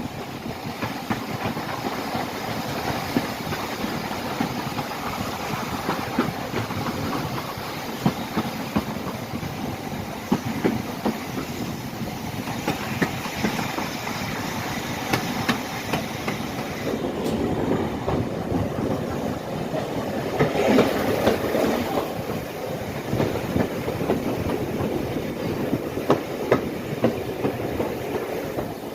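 Inside a Pacer diesel railbus on the move: a steady running rumble with wheels clattering over the rail joints and irregular rattles, growing a little louder about two-thirds of the way through.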